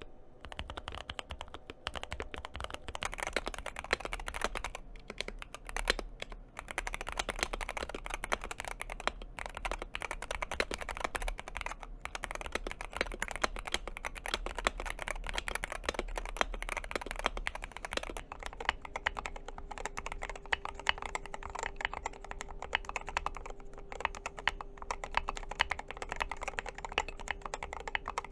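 Mechanical keyboard being typed on steadily, a dense run of fast keystrokes. About 18 seconds in, a faint steady tone joins the typing.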